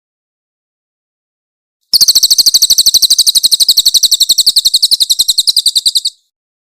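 Crested jay (cililin) giving a loud, high-pitched rattling trill of about eleven rapid notes a second, starting about two seconds in and lasting about four seconds before cutting off.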